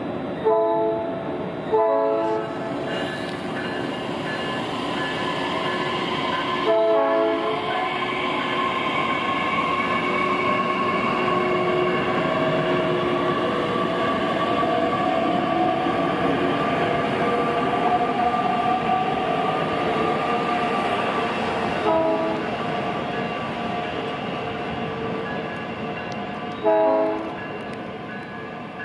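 South Shore Line electric commuter train rolling past with a steady rumble and a whine that slowly rises and falls. A multi-note train horn sounds five short blasts: two close together at the start, a longer one about seven seconds in, and two more near the end.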